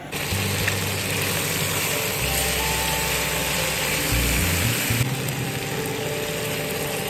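Chicken curry sizzling in a hot pressure-cooker pot as a metal ladle stirs it: a steady hiss.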